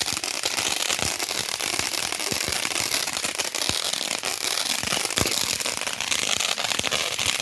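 Wood fire crackling: a dense, irregular run of small pops and snaps over a steady hiss.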